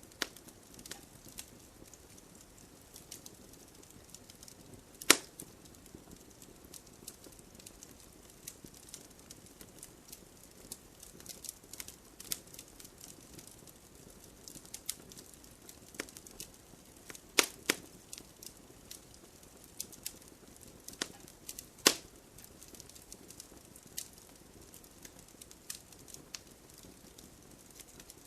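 Wood fire crackling: a scatter of sharp pops and snaps over a faint low hiss, with a few louder pops about five seconds in, around seventeen seconds, and near twenty-two seconds.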